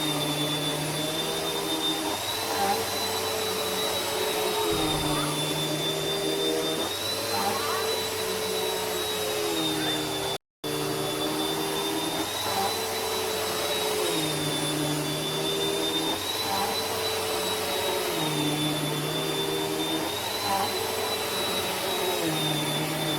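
Vacuum cleaner running steadily, a broad rushing noise with a high motor whine whose pitch dips slightly and recovers every few seconds. A very brief dropout to silence about ten seconds in.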